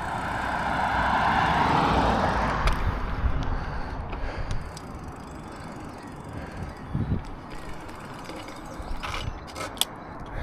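A vehicle passing by, its road noise swelling over the first two seconds and fading away by about four seconds, followed by a quieter outdoor background with a few faint clicks.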